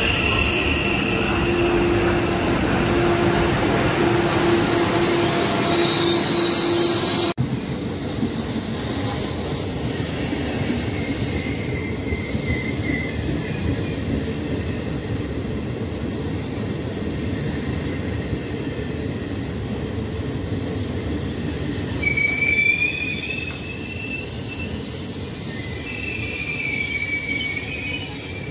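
Passenger trains running past station platforms: first a blue-and-white regional train with a steady whine, then, after a cut about seven seconds in, a train of regional passenger coaches rolling by with high, intermittent wheel squeals that are strongest about twenty-two seconds in.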